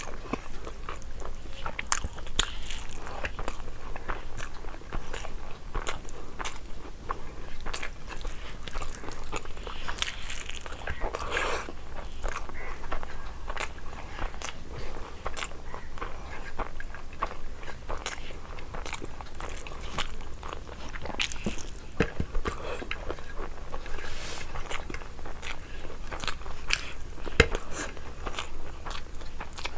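A person eating biryani close to the microphone: steady chewing and biting, with many short mouth clicks throughout.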